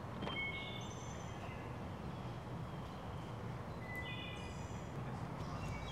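Songbird calls over a low, steady background rumble: a couple of short high notes just after the start and a quick run of chirps about four seconds in.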